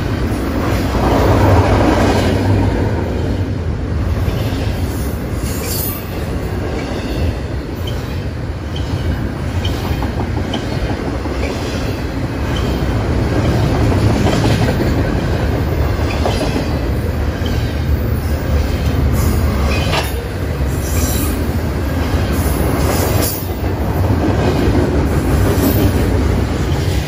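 Double-stack intermodal freight train's well cars rolling past steadily: a deep, continuous rumble of steel wheels on rail, with a few sharp clanks from the cars.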